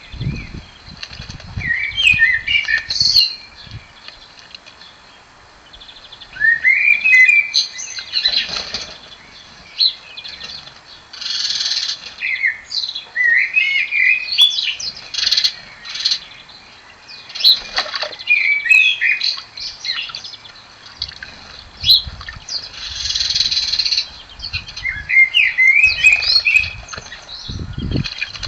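A blackbird singing: a phrase of low, fluting notes rising into a higher twitter, repeated every few seconds. Twice there is a short noisy burst of about a second.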